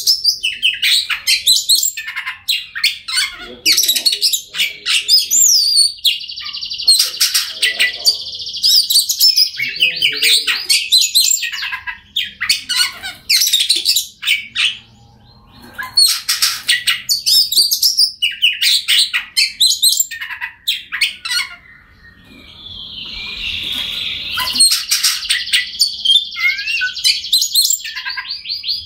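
Oriental magpie-robin singing a loud, varied song of quick whistles, trills and chattering phrases, broken by two short pauses.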